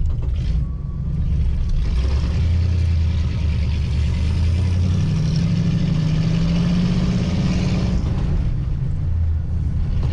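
1940 Ford Tudor's flathead V8 running steadily as the car drives. About halfway through the engine note climbs as it pulls harder, then drops back near the end.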